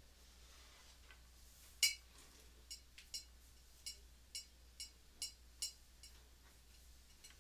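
A sharp click about two seconds in, then about seven lighter clicks at roughly half-second intervals, each with a brief bright ring, as from a small hard object clicking.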